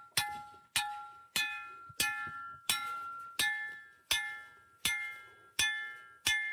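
Hammer striking a steel fence post anchor stake, driving it into the ground: about ten evenly spaced blows, roughly three every two seconds, each ringing out with a clear metallic tone.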